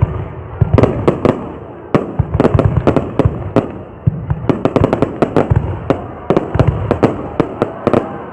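Fireworks going off in quick volleys of sharp bangs and crackles, a cluster every second or two, with a heavy low boom under them.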